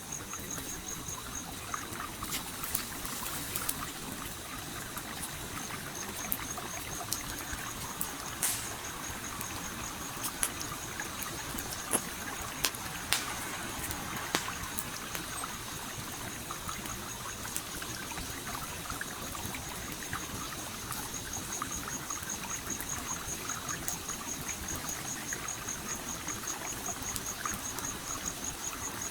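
A stream flowing steadily, with a campfire crackling and popping over it; several sharp pops come between about 8 and 15 seconds in. A cricket chirps in a fast, high-pitched pulsing trill through much of it.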